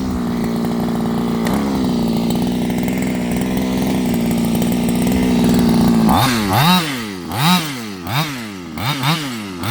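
23cc two-stroke engine of an HPI Baja 5B RC buggy with its original exhaust, running at a steady speed. About six seconds in it is revved in a string of short throttle blips, its pitch rising and falling with each one.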